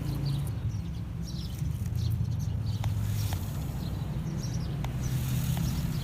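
Small motor of a radio-controlled pickup truck running with a steady, low, wavering hum as the truck drives over rough ground. Birds chirp faintly in the background.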